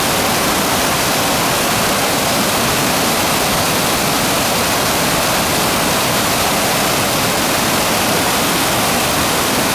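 Waterfall pouring steadily, close up: a loud, even rush of falling water.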